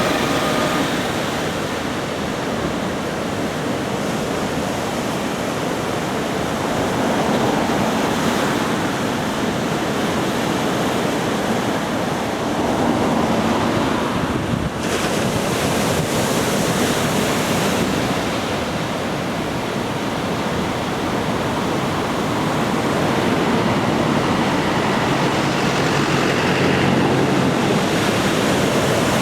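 Ocean surf from a typhoon swell: a steady wash of breaking waves that slowly swells and eases.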